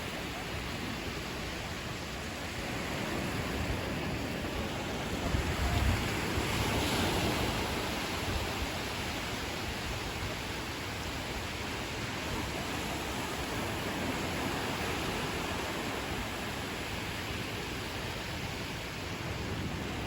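Ocean surf washing onto a beach, a steady hiss of water, with a wave swelling louder about six or seven seconds in before settling back.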